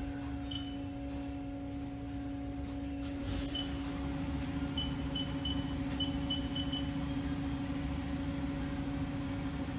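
Steady electrical and mechanical hum from a 2008 Haas VF-1 CNC vertical machining center, idling with the spindle stopped, with short high beeps from its control panel's keypad as the spindle speed is keyed in: one, then another, then a quick run of about seven, and one more near the end.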